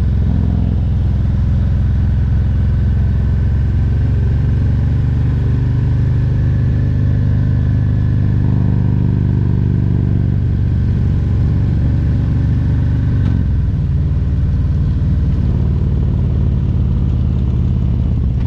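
Harley-Davidson Road Glide Special's Milwaukee-Eight 114 V-twin engine running under way. Its note climbs slowly through the middle, then drops suddenly about two-thirds of the way in and carries on lower.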